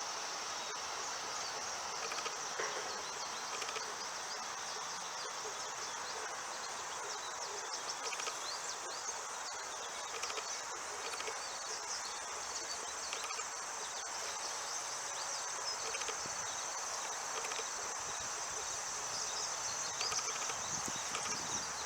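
Steady, high-pitched chorus of insects chirping.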